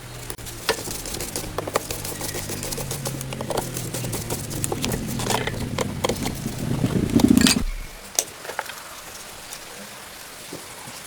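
A small motor running with a steady low hum under many sharp clicks and knocks, building up and then stopping abruptly about three-quarters of the way through, followed by a few faint clicks.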